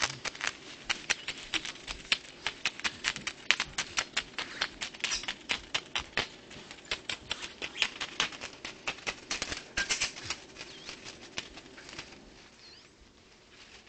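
Pet lovebird working with its beak and feathers: rapid, irregular dry clicks and rustles, several a second, as it nibbles material and tucks it into its own plumage. The clicking thins out and fades near the end.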